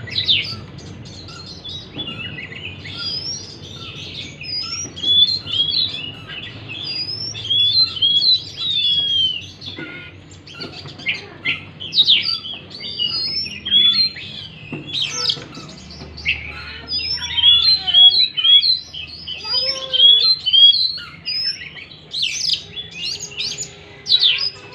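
Oriental magpie-robin (kacer) singing a varied, almost continuous run of whistled slurs, rising and falling notes, and sharp chirps.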